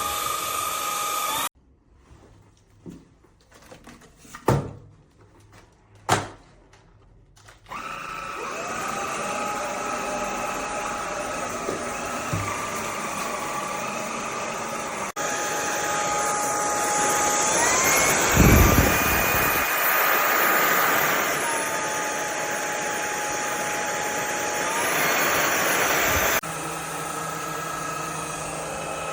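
VIAFLY cordless stick vacuum motor running with a steady whine that cuts off suddenly. After a few seconds of quiet with a few knocks, it starts up again. Its pitch steps up partway through, drops back and rises again, then cuts off near the end.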